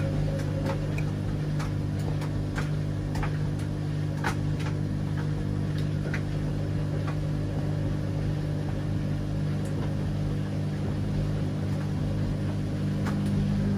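Washing machine running with a steady motor hum, with scattered light clicks over about the first half.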